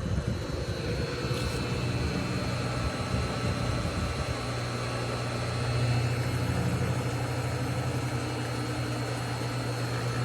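Century UST1152 1.5 hp pool pump motor running with a steady low hum, which evens out and strengthens about four seconds in.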